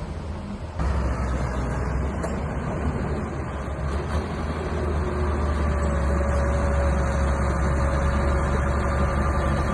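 Mini bulldozer's engine running steadily under load, a constant low drone that jumps louder about a second in and then holds.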